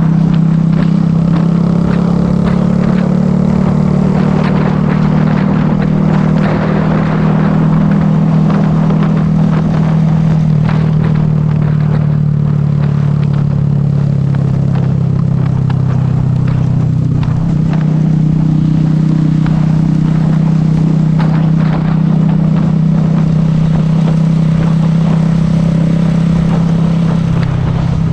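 Motorcycle engine running steadily as the bike rides along the road. Its note shifts about two-thirds of the way through and changes again near the end.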